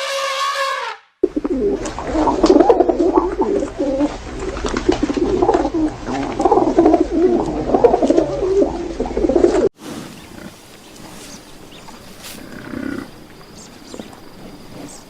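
A flock of birds cooing and calling over one another in a dense, loud chorus for about eight seconds. It cuts off sharply, and much quieter outdoor sound with a few faint calls follows.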